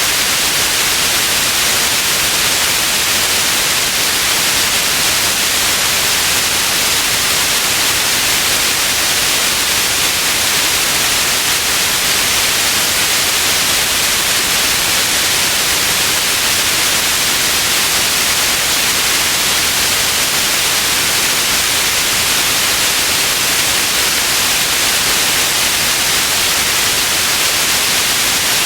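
Steady white noise: a constant, even hiss, brightest in the high range, that never changes.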